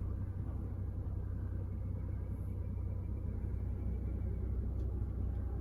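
2024 Ford Bronco Raptor's 3.0-litre twin-turbo EcoBoost V6 running steady and low as the truck slow-rolls in four-wheel-drive high toward a puddle.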